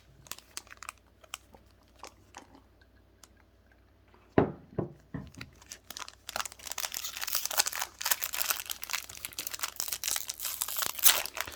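Foil booster-pack wrapper crinkling and being torn open, with dense crackling from about six seconds in. Before that there are a few faint clicks and a short thump about four seconds in.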